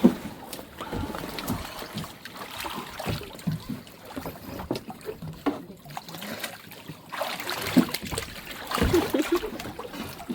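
Sea water sloshing and splashing, with irregular small knocks and surges of water noise.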